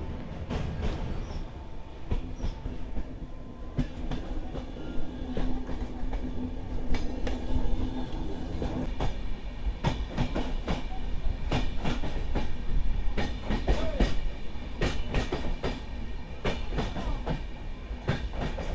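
Passenger express train running on rails: a steady low rumble with irregular clicks and knocks from the wheels, which come thicker in the second half. A steady hum joins the rumble from about two seconds in and fades after about nine seconds.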